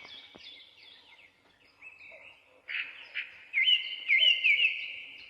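A bird chirping: a series of short, high notes, faint at first and louder from about halfway, ending in a quick run of repeated notes.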